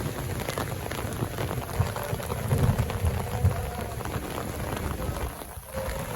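Steady rain falling, with many small drop hits, over a low rumble that swells about two to three and a half seconds in.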